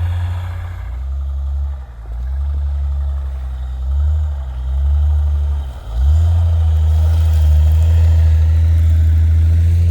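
Off-road vehicle's engine revving up and down several times, then held at higher, steady revs from about six seconds in.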